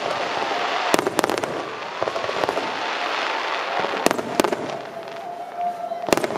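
Aerial firework shells bursting: two sharp bangs close together about a second in, two more at about four seconds, and another just before the end, with a hissing haze between the bangs.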